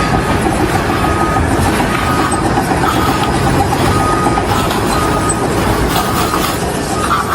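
Loud, steady mechanical rumbling and clatter, with a high tone that comes and goes in short dashes about once a second.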